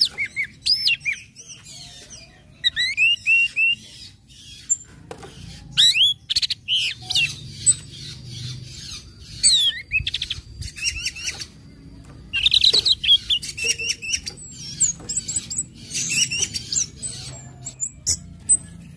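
Orange-headed thrush singing: bursts of quick, sweeping whistled notes and rapid chattering runs, in phrases broken by short pauses.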